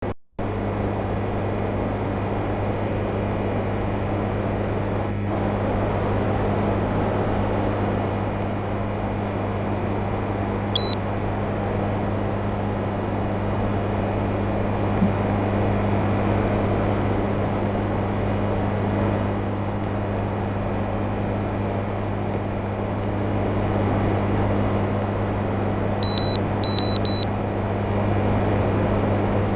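Old Sharp air conditioner running with a steady hum and the rush of its fan. One short electronic beep about eleven seconds in and three quick beeps near the end.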